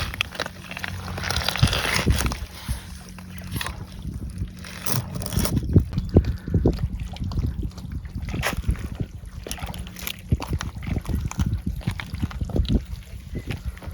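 Choppy sea water sloshing and splashing irregularly against a seawall, with uneven slaps and a louder rush of water about a second in.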